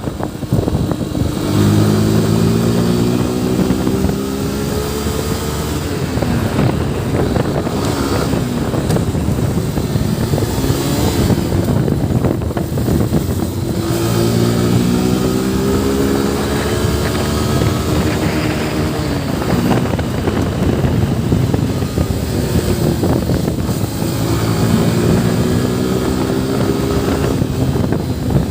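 Yamaha FZ V3's single-cylinder engine running under way, its pitch rising slowly three times as the bike accelerates, with steady road and wind noise in between.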